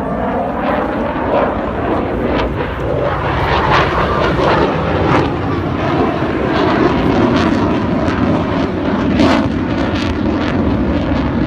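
Fixed-wing aircraft flying past low, its engines loud throughout, with a sweeping change in tone at the start as it passes.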